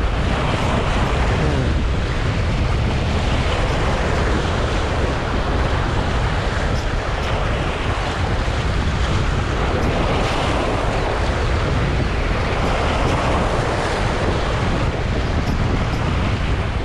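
Strong wind buffeting the microphone, with steady sea waves washing against the shore.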